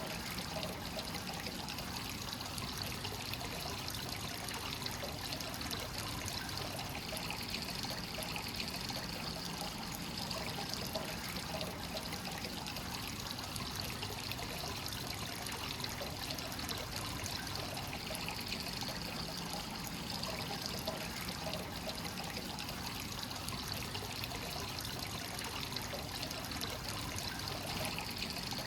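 Hot spring water flowing continuously into a stone bath, a steady trickling, pouring splash of a free-flowing source.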